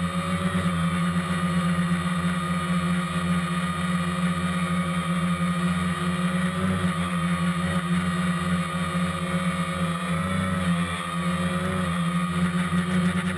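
DJI Phantom quadcopter's motors and propellers buzzing steadily in flight, picked up by the camera carried on the drone, with slight wavers in pitch.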